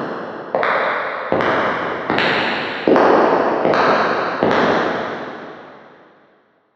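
Footsteps at a steady walking pace, about one step every three-quarters of a second, each a sharp strike with a long echoing tail. The steps stop about four and a half seconds in, and the echo of the last fades out over the next two seconds.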